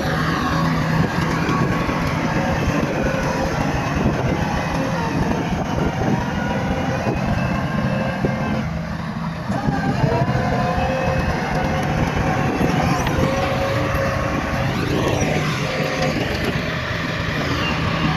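Bulldozer diesel engine running continuously under load, its pitch dropping briefly about nine seconds in and then rising again as it revs back up.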